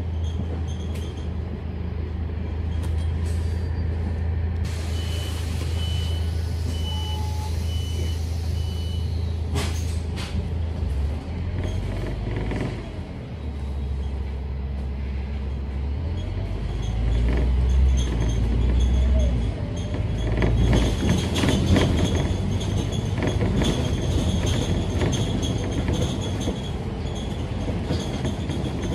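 Scania K310UD double-decker bus's diesel engine heard from inside the bus, idling steadily at first. About five seconds in comes a hiss of air with a row of short high beeps lasting a few seconds. After that the engine note rises in steps as the bus pulls away, and it runs on louder with rattles and knocks from the body.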